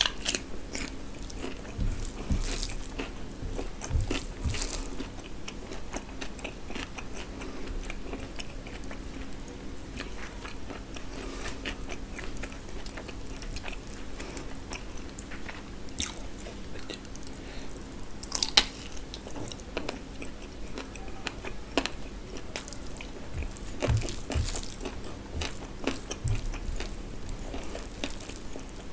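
Close-miked eating: wet chewing and crunching of a rice-and-curry meal, with a bite into raw cucumber at the start. Small clicks of chewing run throughout, with a few louder crunches.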